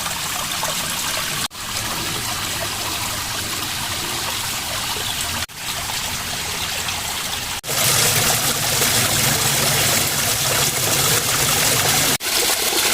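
Clear mountain spring water trickling and splashing down a small waterfall, a steady rush with a few momentary breaks, louder over the second half.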